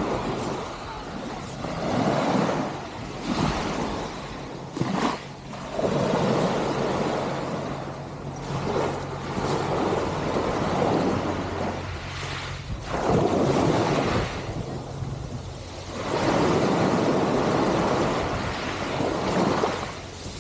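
Wind rushing over the microphone in swells every few seconds, over the steady low drone of a motorcycle engine.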